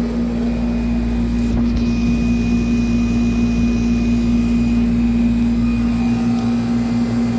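1995 Tempstar central air conditioner's outdoor condensing unit running steadily: its Copeland reciprocating compressor gives a constant hum under the rush of the condenser fan.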